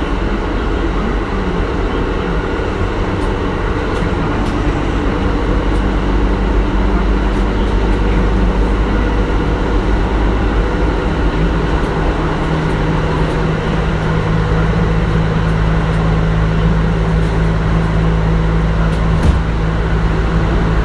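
Kintetsu 1420 series electric train with a Mitsubishi GTO-VVVF inverter, heard from inside the car while running at speed between stations: a steady rumble of wheels and traction motors. A steady low hum comes in about halfway through.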